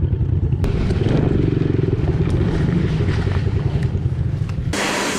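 Yamaha TT-R110 pit bike's small four-stroke single-cylinder engine running steadily. Near the end it cuts off sharply and a steady hiss takes over.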